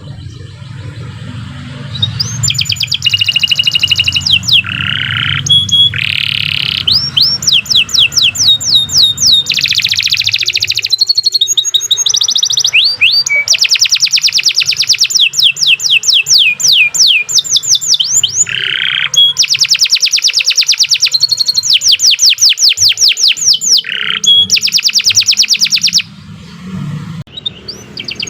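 Domestic canary singing a long, loud song of fast rolled trills, one phrase after another, with short breaks near the start and near the end.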